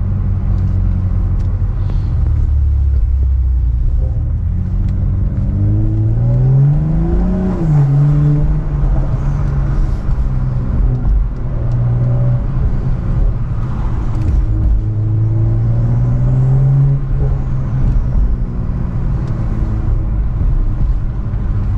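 BMW M340i's turbocharged 3.0-litre straight-six accelerating: the engine note climbs steeply, drops back at an upshift, holds steady, then climbs and drops again toward the end.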